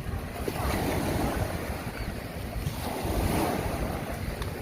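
Surf washing on a beach, with wind rumbling on the microphone; the wash swells and eases over a few seconds.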